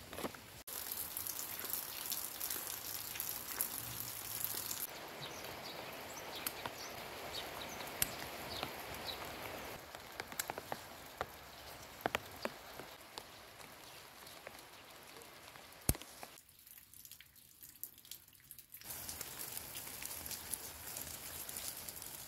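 Rain falling: a steady patter with scattered sharp drips, the level changing abruptly a few times.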